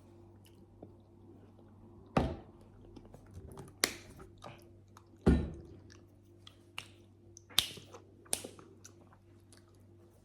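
Close-up eating sounds: mango jelly being chewed, with wet mouth clicks and a few sharper knocks, the loudest about two and five seconds in.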